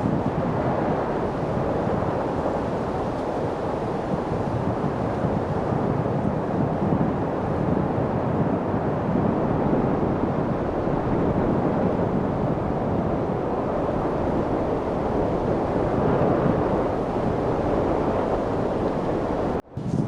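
Steady wind noise, an even rushing sound without pitch, that cuts out for a split second near the end.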